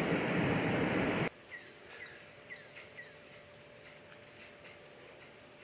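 A steady rushing noise cuts off abruptly about a second in. A bird then gives a series of short, falling chirps, about two a second, over a faint steady hum.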